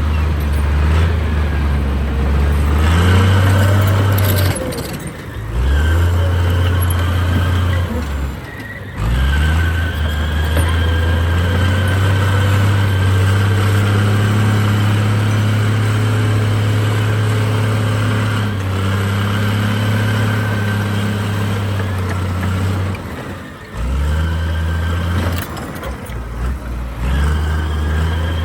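Heavy diesel earthmoving machinery, bulldozer and dump trucks, running under changing load, with the engine note dropping and picking up again several times, and a steady high whine over it.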